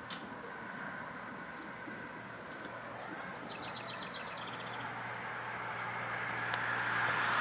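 A bird's rapid trill of about a dozen short high notes, falling slightly in pitch, about three and a half seconds in, over a low steady hum and a rushing background noise that grows steadily louder toward the end.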